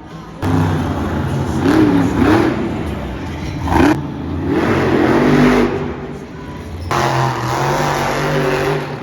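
Monster truck engine revving hard, starting abruptly about half a second in, its pitch rising and falling several times.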